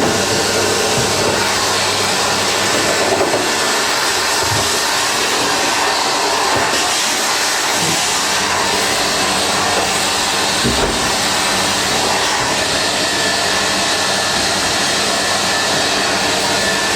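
Vacuum cleaner running steadily while sucking fluff out of a tumble dryer, with a few dull knocks of the nozzle against the machine.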